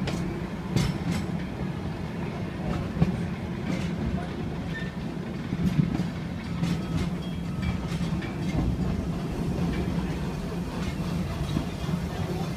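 Open passenger cars of a steam-hauled train rolling along the track, heard from on board: a steady low rumble with irregular sharp clacks from the wheels and rails.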